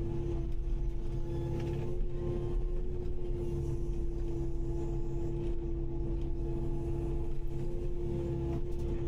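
Kubota KX080-5 excavator running steadily: a constant engine rumble with a steady high whine held over it.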